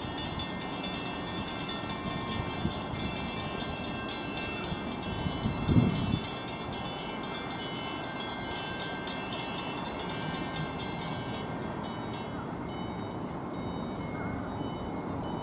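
Train at a station platform, with a rapid high ringing that stops about twelve seconds in and a brief low thump about six seconds in.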